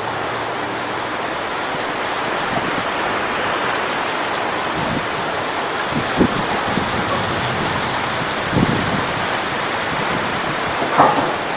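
Strong wind rushing through coconut palm fronds: a steady, even rustling hiss. There are a few brief low thumps of gusts on the microphone about six and eight and a half seconds in, and a short knock near the end.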